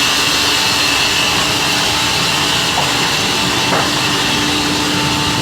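Automatic log sawmill running steadily, its saw cutting through a log: a loud, even machine hiss over a steady hum.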